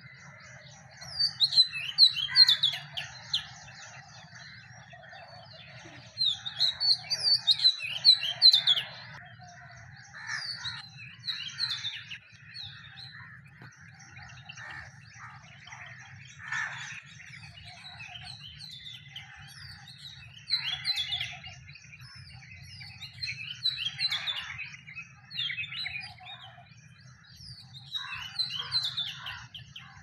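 Small birds chirping and twittering in repeated bursts of short high notes, loudest about 1 to 3 and 6 to 9 seconds in, over a steady low background hum.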